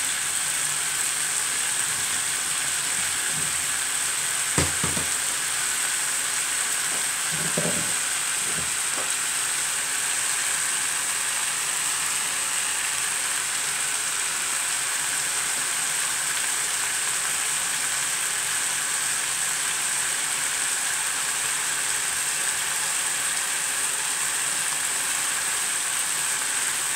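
Chicken, potatoes and vegetables sizzling in a pan, a steady frying hiss, with a few short knocks about five and eight seconds in.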